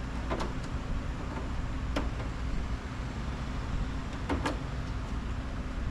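A few sharp plastic clicks and knocks as a latched lower cover on the portable air conditioner is pried and pulled at by hand, with a close pair of clicks a little past four seconds in. A steady low hum runs under them.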